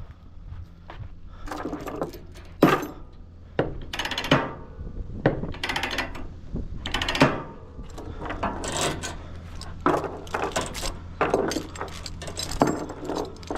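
Irregular knocks and clattering thunks, about one a second, over a steady low engine hum.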